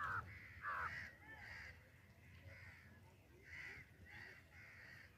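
A string of short, harsh bird calls, about eight of them, the first two the loudest, over a low rumble.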